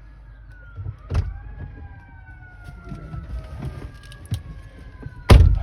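A distant emergency vehicle's siren wailing: a slow rise about a second in, then a long falling glide. A low rumble runs underneath, with two sharp thumps, about a second in and, loudest, near the end.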